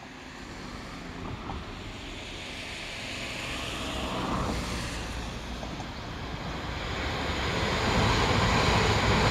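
E3-series Yamagata Shinkansen 'Tsubasa' train approaching and passing below, a rumble of wheels on rail that grows steadily louder and is loudest in the last second or two as the cars go by.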